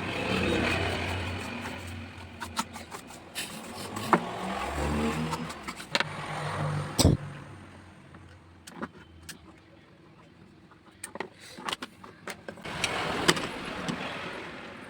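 Motor vehicles passing, their noise swelling and fading three times, with several sharp clicks or taps in between.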